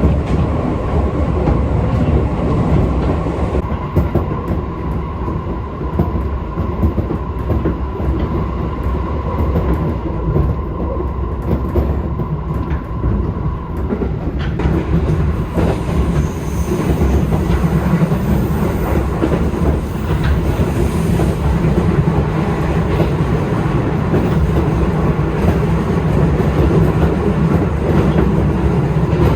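Japanese train running on the rails: a steady low rumble with wheels clattering, and a steady whine that stops about halfway through.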